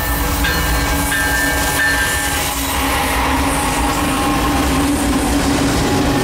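Diesel locomotives at the head of a BNSF intermodal freight train passing close by, engines running with a steady low rumble over the rolling of wheels on rail. A faint high whine is heard in the first couple of seconds.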